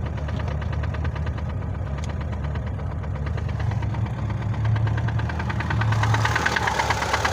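VAZ-2106 four-cylinder petrol engine idling with an even, rapid beat, running smoothly like clockwork with no knock heard. It gets louder about six seconds in.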